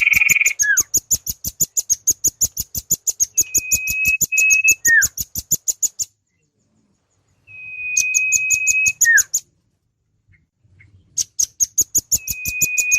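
Bird-lure recording of a velvet-fronted nuthatch and a common iora calling together. A rapid series of sharp, high chip notes, about nine a second, runs under long, even whistles, each ending in a short falling note. The sound stops and restarts twice, about halfway through and again near the end.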